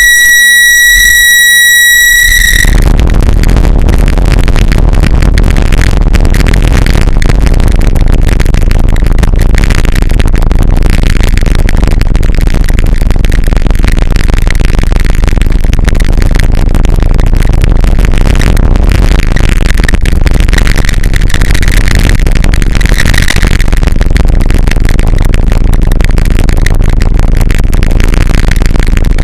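Harsh noise music. A steady, high, pure tone with overtones holds for about two and a half seconds. It then cuts off into a dense, unbroken wall of loud, distorted noise.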